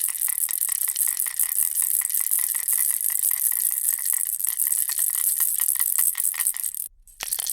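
Bear-in-a-ball baby rattle shaken continuously, a fast, dense rattling of its loose pieces that stops for a moment about seven seconds in and then resumes.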